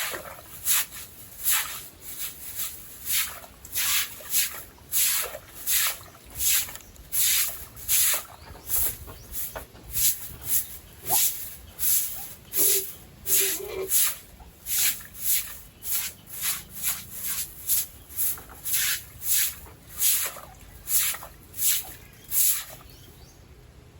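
Rhythmic scrubbing strokes of a stiff brush on a pigpen floor, about two short hissing strokes a second. They stop shortly before the end.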